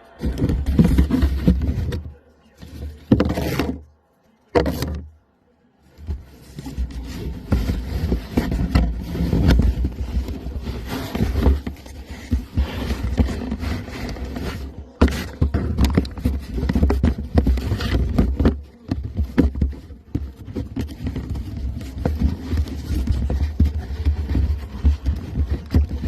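Beagles chewing and scratching at a cardboard box: irregular scraping and rustling of cardboard, broken by two short pauses in the first few seconds.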